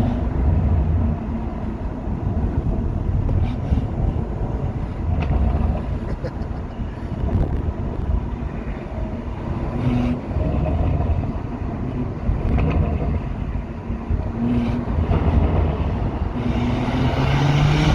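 Stage 2 tuned BMW M140i's turbocharged B58 straight-six with a Quicksilver exhaust, running hard on the road, with continuous engine and road noise and a few short sharp cracks. Near the end the engine note rises as it pulls again.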